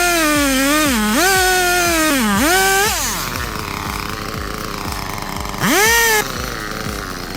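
A chainsaw running at high revs, its pitch dropping and recovering three times as it bogs into the cut, then stopping about three seconds in; near six seconds it revs up briefly once more. A steady music beat runs underneath.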